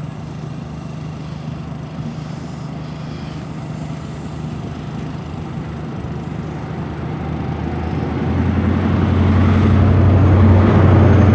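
A CrossCountry HST (InterCity 125) pulling out with Class 43 diesel power cars, a steady low engine note with a rumble of the train. From about eight seconds in the engine grows clearly louder as the rear power car draws near.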